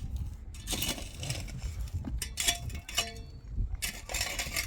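Three short scraping or rustling bursts about a second apart, with a few light clinks between them, over a low rumble.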